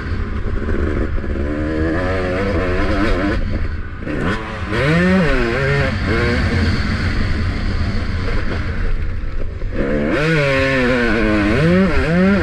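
Motocross bike engine revving hard and dropping off the throttle over and over, its pitch sweeping up and down with each burst. It eases off twice, about four seconds in and again near ten seconds, then climbs again, heard from the rider's helmet.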